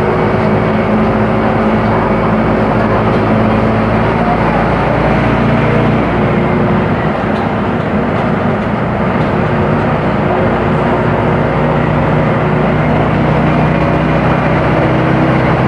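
Mercedes-Benz OF-1418 bus's six-cylinder diesel engine running steadily. Its note shifts in pitch a few times, near the middle and again after about twelve seconds, as engine speed changes.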